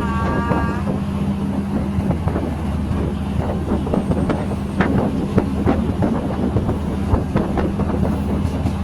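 A train running along the track: a steady low rumble with irregular clicks and knocks of the wheels and carriage.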